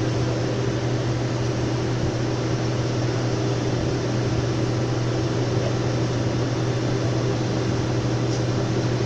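Boeing 787 Dreamliner jet engine running steadily during an engine check: a constant rush of noise with a strong low hum and fainter steady tones above it, unchanging throughout.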